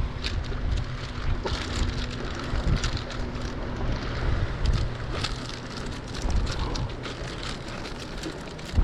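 Wind buffeting the microphone in a low, uneven rumble, with scattered crackles and clicks. A faint steady motor hum under it fades out near the end.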